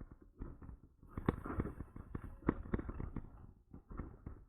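Irregular rattles and knocks from the e-bike and its mounted camera jostling over the pavement as it rolls along, over a low rumble.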